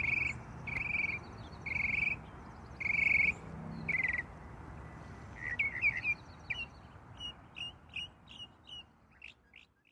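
Birdsong: a raspy call repeated about once a second, five times, then a run of quicker, varied chirps that fade out near the end.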